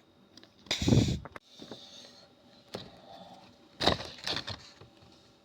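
Mock explosions as the missile strikes the plasticine ship: a loud boom about a second in and another near the end, with smaller bangs between and after.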